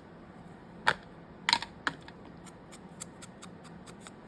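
Paper edges being roughed up with a handheld distressing tool: a few sharp clicks and scrapes, loudest about a second in and again around a second and a half, with faint ticking between.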